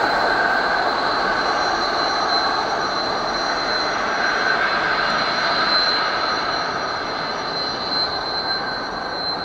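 Wagons of a long intermodal container freight train rolling past: a steady rush of wheels on rail with a thin, steady high whine above it, easing off slightly near the end.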